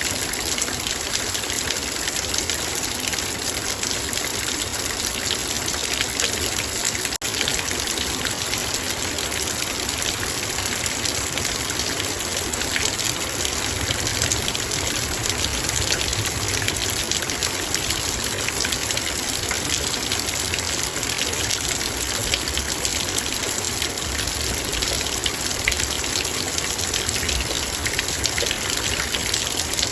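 Heavy rain falling on a metal bowl: a dense, steady patter of drops over a constant rain hiss, with a momentary break about seven seconds in.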